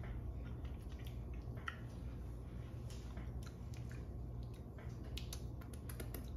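A person chewing a mouthful of blackened catfish: faint, soft wet mouth clicks scattered through, over a steady low hum.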